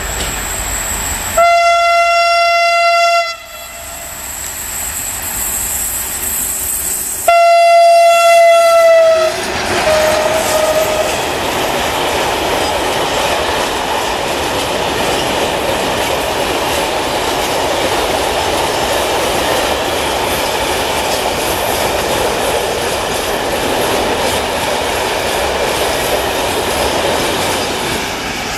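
Electroputere ST43 (LDE 2100) diesel-electric locomotive sounding its horn in two long single-tone blasts, about six seconds apart, the second sagging slightly in pitch as it ends. Then a long freight train of hopper wagons passes with a steady rumble and wheels clattering over the rail joints.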